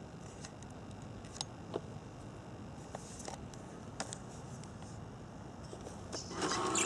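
A few light clicks and ticks, then, about six seconds in, a small electric motor or gear mechanism starts up with a steady whirring whine.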